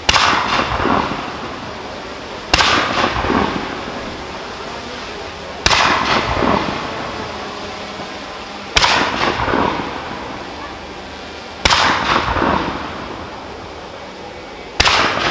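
Fireworks display firing single shots: a sharp bang about every three seconds, six in all, each trailing off in rolling echoes.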